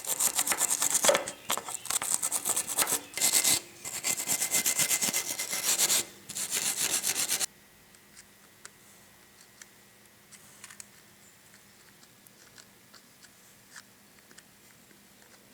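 Repeated scraping or rubbing strokes in bursts for about seven seconds, stopping suddenly, followed by faint scattered clicks.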